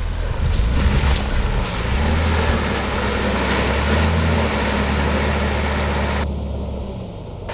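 Jeep Cherokee XJ's engine running steadily as it drives through a shallow mud puddle in two-wheel drive, under a loud even wash of noise that drops away about six seconds in.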